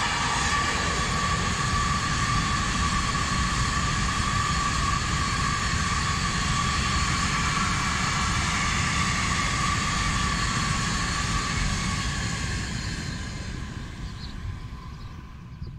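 Freight train of covered hopper wagons rolling past: a steady rumble of wheels on rail with a steady high whine. It fades from about twelve seconds in as the last wagons go by.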